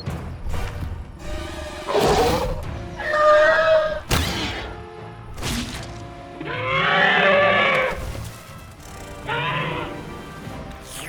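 Animated dinosaur calls, a run of roars and cries with the longest near the middle, over background music.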